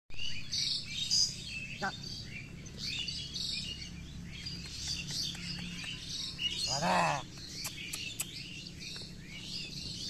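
Many small birds chirping steadily, with one short rising-and-falling call from a man about seven seconds in.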